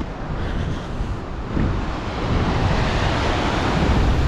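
Ocean surf surging into coastal rock chasms at high tide, a churning wash of water with a deep rumble that swells about a second and a half in. Wind buffets the microphone.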